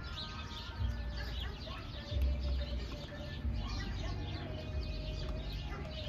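Birds chirping and calling, with a few longer held notes, over bouts of low rumbling.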